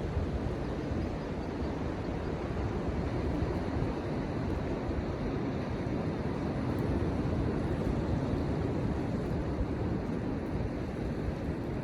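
Steady wind rumbling on the microphone over the continuous rush of surf, with no distinct events.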